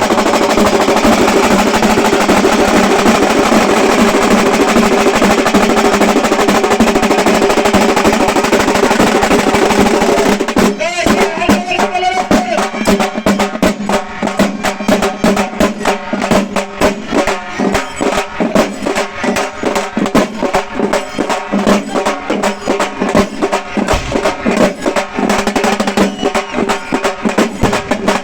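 Halgi frame drums played with sticks in a fast, continuous roll, breaking about ten seconds in into a beat of separate strokes. The drumheads ring with a steady pitch under the strokes.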